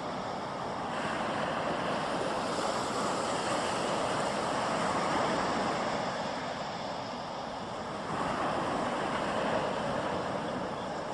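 Sea surf: a steady rushing of breaking waves that swells and eases twice, building about a second in and again about eight seconds in.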